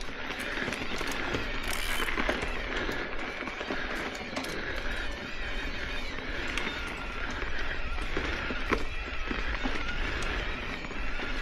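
Ibis Oso electric mountain bike being ridden on a dirt trail: tyres rolling over the ground with many scattered clicks and rattles from the bike, over a steady wavering whine and a low rumble.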